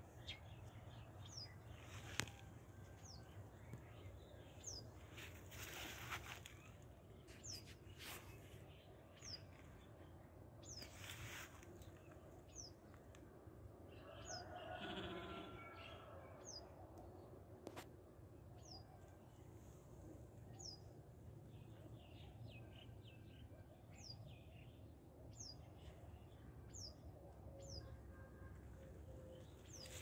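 A small bird faintly repeats a single short, high, falling chirp about once every one to two seconds, with a few soft rustling bursts in between.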